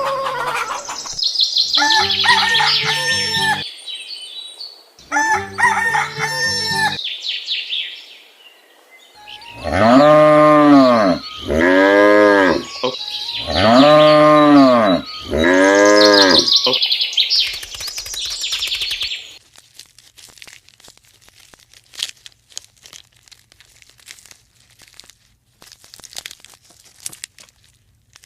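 Farm-animal sound effects with an electronic, toy-like tone: fowl calls, then four loud arching animal calls about a second each. These give way to faint scattered clicks and crinkling for the last third.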